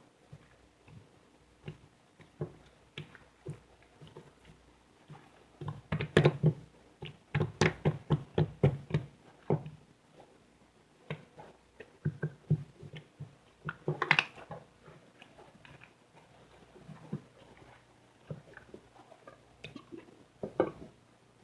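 Soft clay or slime worked by hand, giving short wet clicks and squishy pops, with dense runs about six to nine seconds in and around fourteen seconds in.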